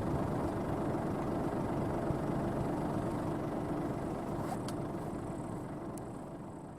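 New Holland CX8.90 combine harvester running, a steady engine and machinery noise that fades away over the last couple of seconds.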